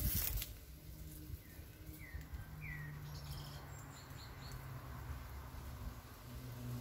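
Quiet outdoor ambience with a low steady hum, over which a small bird gives a few short chirps that sweep in pitch about two to three seconds in, followed by a few higher, briefer calls. A brief rustle at the very start is the loudest sound.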